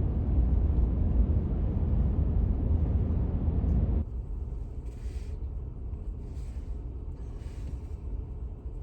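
Road and wind noise inside a moving vehicle's cabin: a steady low rumble that drops sharply about four seconds in, then goes on quieter with three brief soft swishes.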